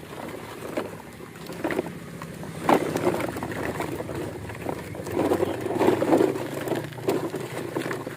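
Toy trucks being handled and pushed about, with irregular clattering knocks and scraping. The busiest stretches come about a third of the way in and again past the middle.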